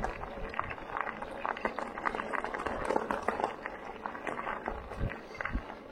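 Bike tyres crunching over a gravel trail while riding, an uneven run of crackles and small crunches with a few low thumps.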